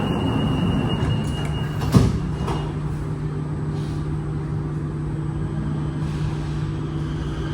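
Inside a Kawasaki-CRRC T251 metro carriage: the doors' high warning tone ends and the sliding doors shut with a single sharp thud about two seconds in. A steady low hum then carries on as the train pulls out of the station.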